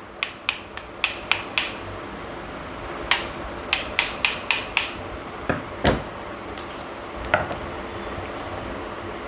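Gas stove lighter being tapped gently to knock out a part held tight by a washer. The sharp taps come in two quick runs of about six, then a few scattered ones.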